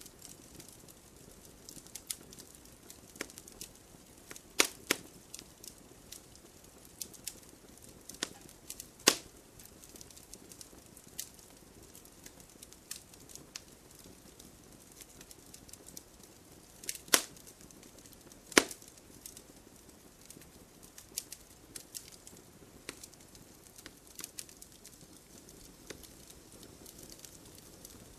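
Wood fire crackling in a fireplace: irregular small crackles over a soft hiss of burning, with a handful of sharper, louder pops from the wood.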